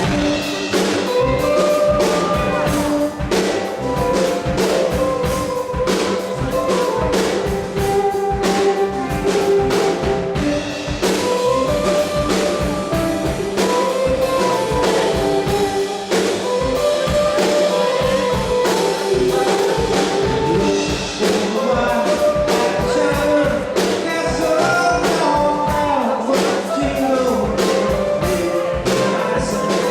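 Live band playing an upbeat rock jam: a drum kit keeps a steady beat under running melodic lead lines.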